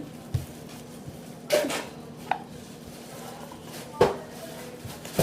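A mixing utensil knocking and scraping against a bowl as sticky slime is scraped out of it: about five sharp knocks a second or more apart, the loudest near the middle and about four seconds in.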